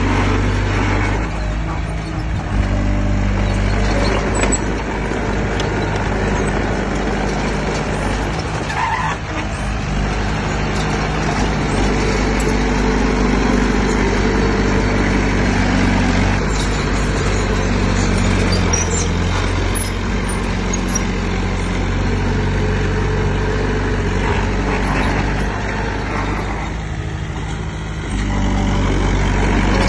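Heavy diesel engine of construction machinery running hard, its engine speed shifting up and down several times.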